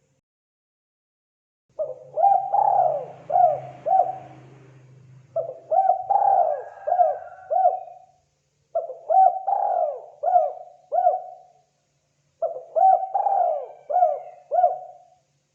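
Spotted dove (terkukur) cooing: four phrases of several short coos each, repeated every three and a half seconds or so.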